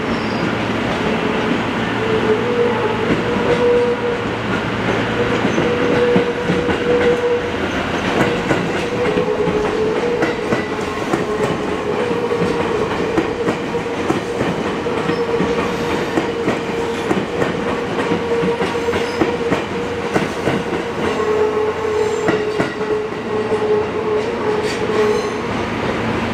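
Electric train on the Izuhakone Railway Sunzu Line running through the station, its wheels clicking over the rail joints, with a steady whine.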